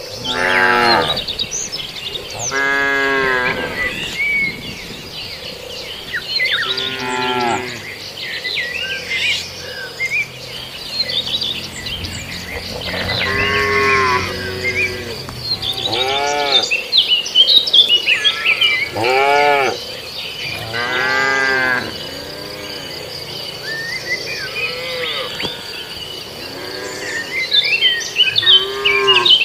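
Cattle mooing repeatedly, about nine long calls from several cows, under a steady high insect drone and scattered bird chirps.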